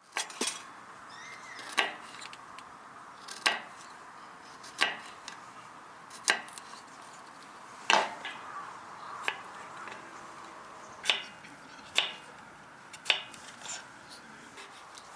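Chopping strikes: sharp single knocks at a steady pace of roughly one every one and a half seconds.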